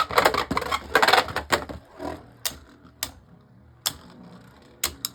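Two Beyblade Burst spinning tops battling in a plastic stadium: a rapid clatter of clashes for about the first two seconds, then only single knocks now and then as the tops touch.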